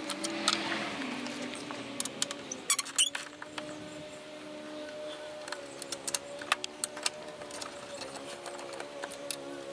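Scattered sharp clicks and clinks of hand tools and parts being handled in an engine bay, a quick cluster of them about two to three seconds in and more after the middle, over a steady low hum.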